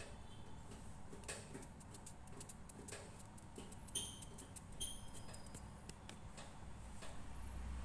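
Scattered light clicks and taps of parts and tools being handled, with two short metallic clinks that ring briefly, about four seconds in and again just before five seconds.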